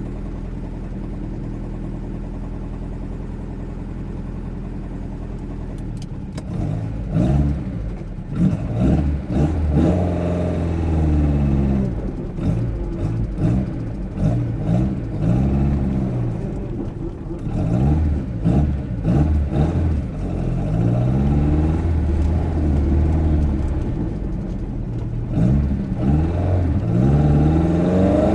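Lada 2103's 1600cc four-cylinder engine on twin Weber DCOE 40 carburettors, heard from inside the cabin. It idles steadily for about six seconds, then the revs rise and fall again and again as the car pulls away and changes gear.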